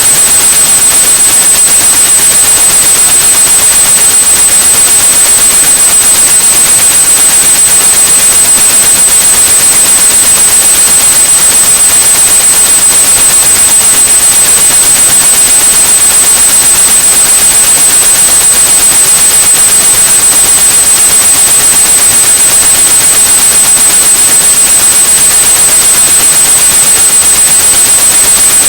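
Steady synthetic white noise with a continuous high-pitched 8100 Hz sine tone over it, loud and unchanging: a tinnitus-masking sound.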